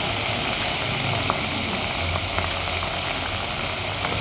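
Boneless chicken pieces sizzling in hot oil in a kadai: a steady hiss with occasional small pops, over a low steady hum.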